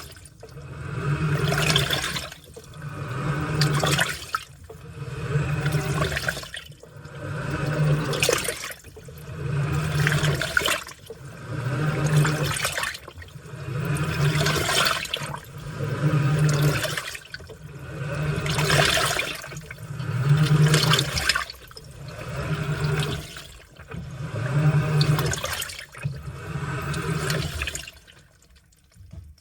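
Washing machine in its wash cycle: the motor hums and water sloshes in swells about every two seconds as the load is churned back and forth, with a short pause near the end.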